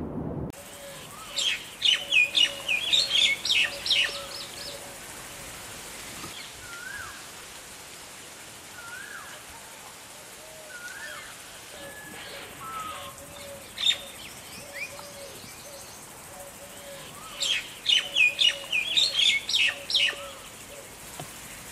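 Birds chirping, with two bursts of rapid high-pitched twittering, one about a second and a half in and another near the end. Softer short notes repeat in between.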